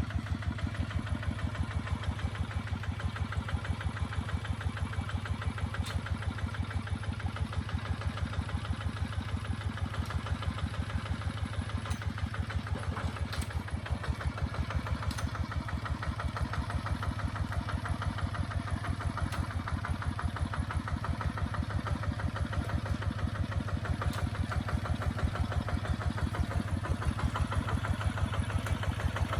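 Kubota ZT 155 DI single-cylinder diesel engine running steadily at a low, idle-like speed, each firing stroke heard as an even putt about four times a second. It grows slightly louder near the end.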